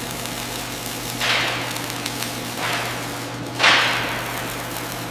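Three sudden hissing bursts, the last the loudest, each fading within about half a second, over a steady low machine hum.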